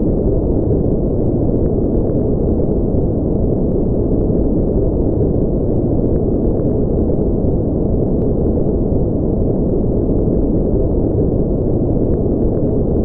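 Steady, unbroken noise from a sleep noise track, sold as white noise but deep and muffled, with its weight in the low end and nothing in the treble, so it sounds closer to brown noise. There are no tones or rhythm.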